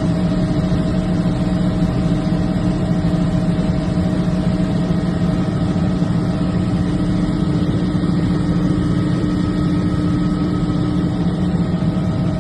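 A vehicle engine idling steadily, a constant hum that holds one pitch throughout.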